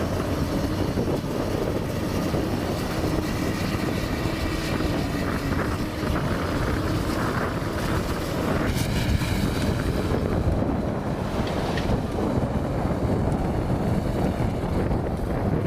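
Komatsu PC200 hydraulic excavator's diesel engine running steadily under working load, with wind buffeting the microphone.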